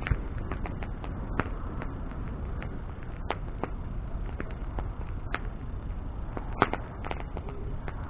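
Wood bonfire burning, with a steady low rumble of flame and irregular sharp crackles and pops from the burning wood, the loudest pop a little past the middle.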